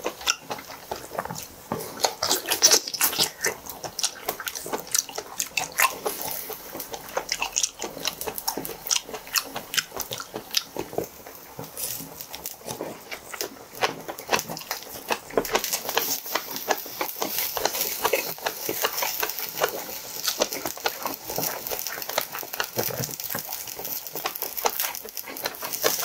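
Close-miked chewing and biting of seafood: wet mouth smacking with many quick crunchy clicks.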